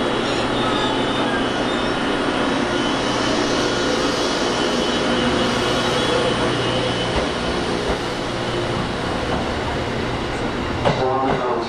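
Passenger train pulling slowly past along the platform: steady rumble and running noise with a low engine hum, and a few clicks of wheels over rail joints near the end.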